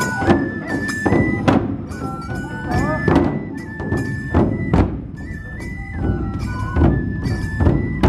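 Matsue dō-drum procession music: heavy strikes on large festival drums, irregularly spaced about once or twice a second, under a bamboo flute melody of long held notes with slides, and ringing cymbal clashes with the strikes.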